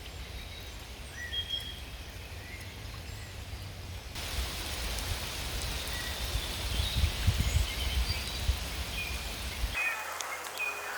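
Rain falling in woodland, a steady hiss that grows heavier about four seconds in, with a few short bird chirps. A low rumble underneath stops abruptly near the end.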